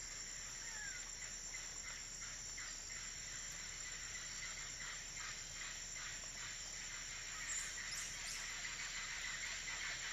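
Faint natural ambience: a steady high insect chirr with a few short bird chirps.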